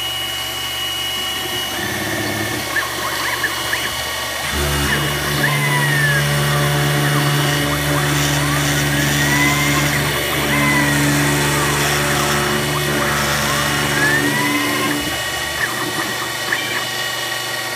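CNC-converted X2 mini mill cutting a circle in plastic with an end mill. The spindle runs steadily throughout. From about four seconds in until about fifteen seconds, the axis motors add a whine whose pitch rises and falls as the table traces the circle.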